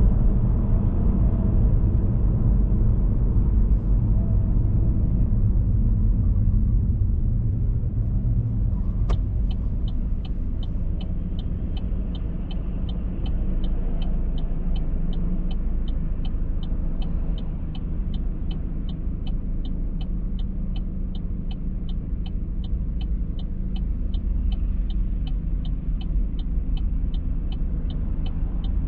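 Steady low rumble of a car heard from inside the cabin while driving. About nine seconds in there is a sharp click, and then a turn-signal indicator ticks evenly, about two ticks a second.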